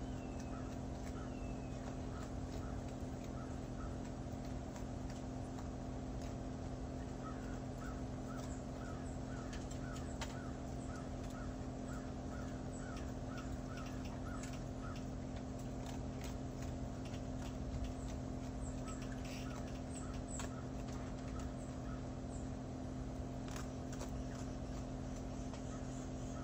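A bird calls in quick repeated chirps, about three a second, over a steady low hum. Scattered soft splashes come from a raccoon dabbling its front paws in a shallow dish of water.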